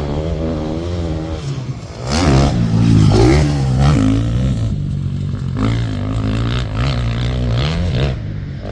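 85cc two-stroke motocross bikes riding the track, engines revving up and dropping back again and again as they shift and throttle, loudest about two to four seconds in.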